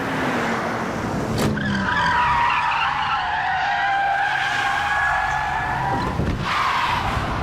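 Car engines running hard with tyres squealing, wavering and drawn out, as cars brake and swerve in a car-chase interception. A short sharp knock comes just before the squealing starts, about a second and a half in.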